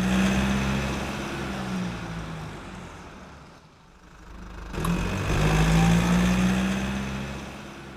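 Car engine passing by twice: a steady low engine note that swells and fades, then swells again about five seconds in and fades away.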